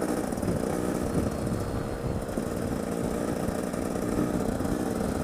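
Trail motorcycle engine running at a fairly steady pace with slight rises and falls in pitch, heard through an action camera's open skeleton-back housing with a rumble of wind buffeting on the mic.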